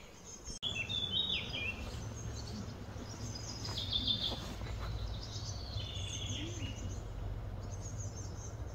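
Small birds chirping in short bursts of high calls, scattered through, over a steady low hum.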